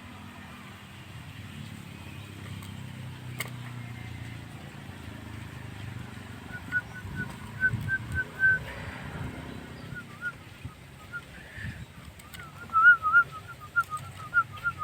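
Javan myna (jalak kebo) singing: a run of quick, warbling whistled notes that starts about six seconds in and grows louder near the end, over a low background rumble.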